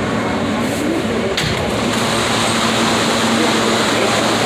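New York City subway F train running between stations, heard from inside the car: a steady rush and rumble of wheels on rail, with one sharp click about a second and a half in and a steady low hum joining about two seconds in.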